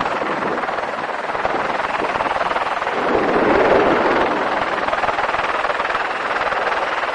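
Helicopter in flight heard from on board: a steady loud rotor and engine noise with a fast, even pulsing from the blades, swelling a little about three seconds in.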